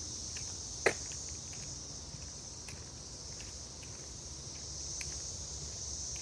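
Steady high-pitched drone of insects in the woods, with faint footsteps along the trail. A single sharp click about a second in is the loudest sound.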